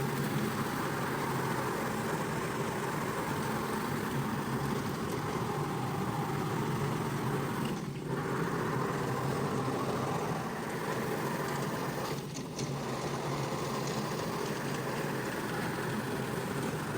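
A motor-driven carpet-cleaning machine running steadily, its sound dipping briefly about eight and twelve seconds in.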